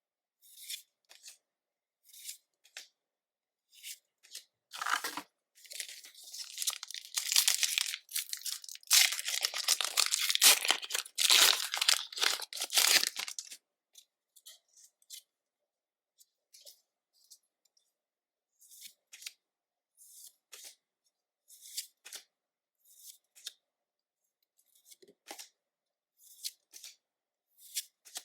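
A Pokémon 151 booster pack's foil wrapper being torn open, a dense crinkling rip lasting several seconds about a third of the way in. Short, soft, scattered sounds of cards being handled come before and after it.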